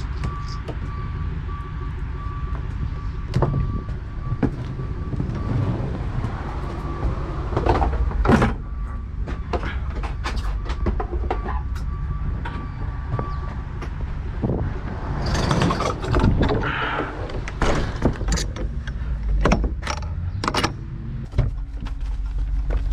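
An engine running steadily, with irregular knocks and clatter over it. A high beeping tone repeats quickly for roughly the first fourteen seconds.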